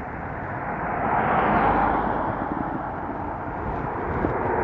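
Road traffic passing on a busy street: engine and tyre noise of a vehicle swelling about a second in and fading, with another building up near the end.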